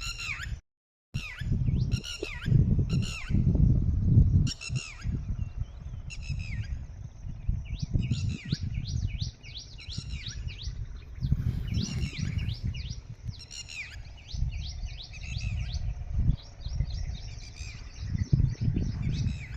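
Birds calling: harsh, repeated calls that fall in pitch, roughly one a second at first, then quick runs of short clipped notes. Under them runs a low rumble that swells and fades, and the sound cuts out completely for half a second near the start.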